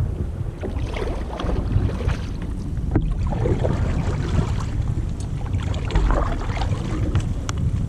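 Kayak on open water: paddle splashes and water sloshing, with wind rumbling on the microphone.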